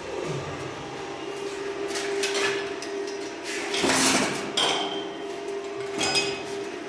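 Irregular metal clanks and scrapes from pipe-fitting work, the loudest cluster about four seconds in, over a steady hum.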